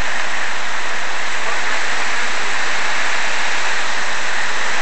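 Loud, steady hurricane rain falling, an unbroken hiss with no let-up.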